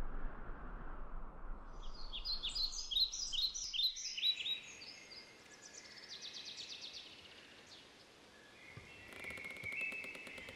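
Songbirds singing in a run of quick repeated chirping phrases and trills. For the first few seconds a steady rushing noise runs under them, then cuts off suddenly.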